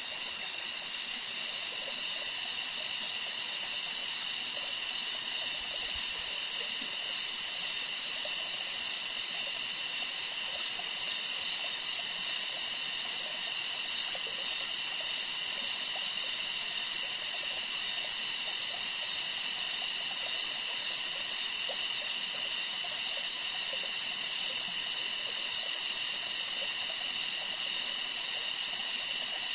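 Steady high-pitched insect chorus of the rainforest, several shrill droning tones held without a break.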